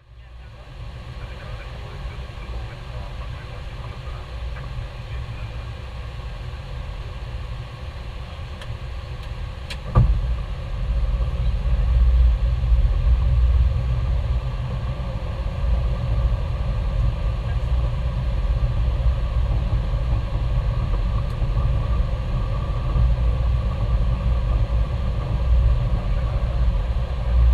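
Airbus A321 flight deck on final approach: a steady low rumble of airflow and engines. About ten seconds in there is one sharp knock, after which the low rumble is louder.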